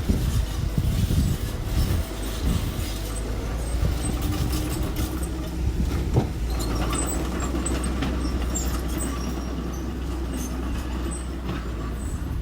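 Small construction machine's engine running steadily, with scattered metallic clanks and knocks, one sharper knock about six seconds in.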